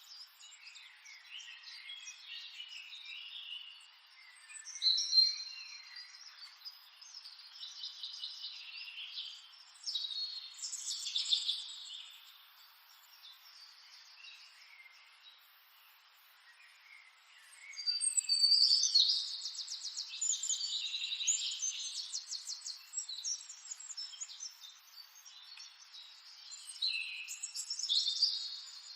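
Several wild birds chirping and singing in irregular bursts over a faint steady hiss, with a long run of rapid trills about two-thirds of the way through.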